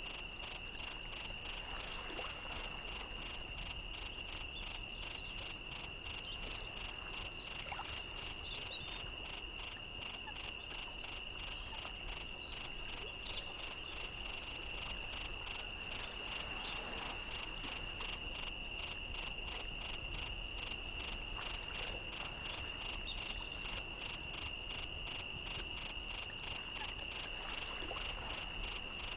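Night insects, crickets, calling: one unbroken high trill alongside a higher, even chirping of about two to three pulses a second.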